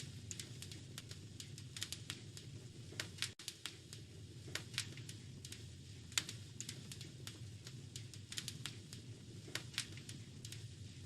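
Wood fire crackling: irregular sharp pops and snaps, several a second, over a low steady noise of the burning fire. The sound cuts out for an instant about three seconds in.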